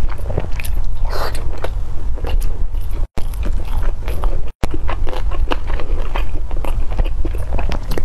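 Close-miked chewing of soft steamed shumai dumplings, with many wet mouth clicks and smacks. The sound cuts out twice for an instant, about three and four and a half seconds in.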